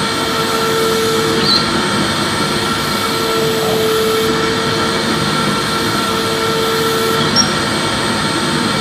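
Vacuum cleaner running steadily: a dense rushing hum with a low whine that comes and goes every second or two, and two faint clicks.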